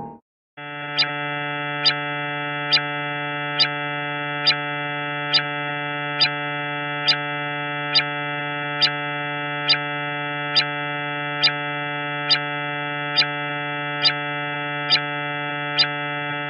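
Electronic space-sound sonification: a steady low buzzing drone with many overtones, cut through by a sharp tick a little more than once a second, evenly spaced like a pulse. It begins after a short silence at the start.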